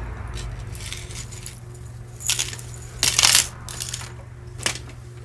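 Costume jewelry clinking and rattling as pieces are handled and dropped into a box: a few short jingles, the loudest about three seconds in.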